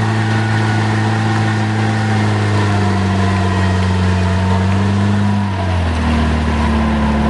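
UAZ Hunter off-roader's engine running steadily at low revs as the vehicle wades through a muddy puddle; its pitch shifts about five and a half seconds in.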